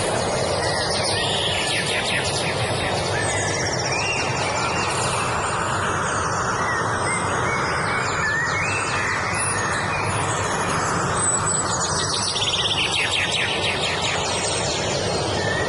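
Several songbirds singing: quick trills of short falling notes and arched whistled phrases, over a steady rushing background noise.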